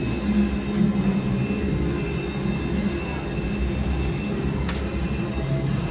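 Busy casino floor ambience: a steady din of surrounding slot machines, with their constant electronic tones and jingles, over a low crowd rumble, and a single sharp click near the end.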